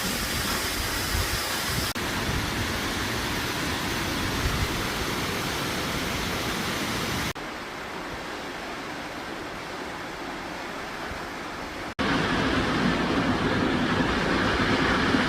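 Waterfall: a steady rush of falling water, cut into several clips with sudden changes in level about 2, 7 and 12 seconds in.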